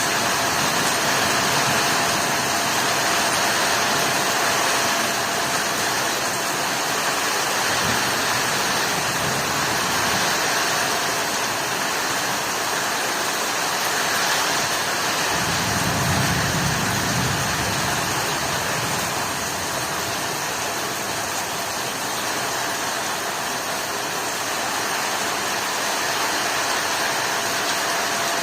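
Heavy rain pouring in a steady, dense hiss. About halfway through, a low rumble rises and fades over roughly two seconds.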